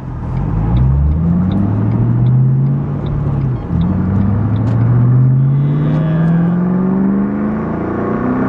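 A car engine, heard from inside the cabin, accelerating with its pitch rising, dropping at a gear change about three and a half seconds in, then rising again. A faint steady ticking sounds, about two to three ticks a second, during the first few seconds.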